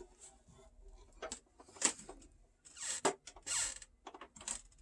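A vintage Kenner Millennium Falcon toy being lifted and turned over by hand: light clicks and knocks of hard plastic, with two brief scraping sounds about three seconds in.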